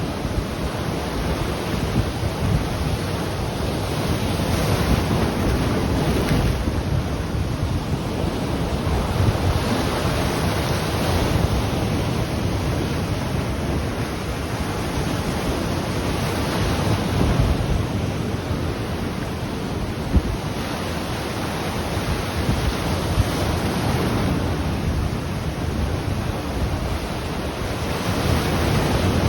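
Ocean waves breaking and washing on the shore, a steady surf that swells and eases every few seconds, with wind buffeting the microphone. A couple of short sharp knocks stand out about two-thirds of the way through.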